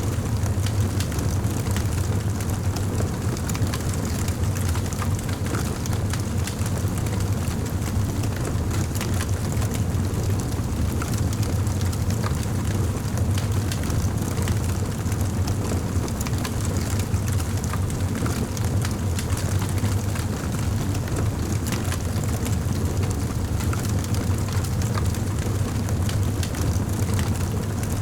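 Fire burning in a fireplace: steady crackling with many small pops over a continuous low rumble of the flames.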